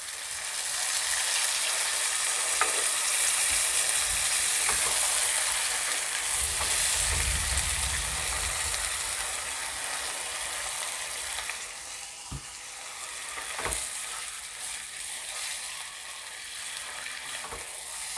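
Vegetables in mustard and poppy-seed paste sizzling in a hot kadai as milk is poured in and stirred with a wooden spatula. The hiss eases after about ten seconds, and the spatula knocks against the pan twice.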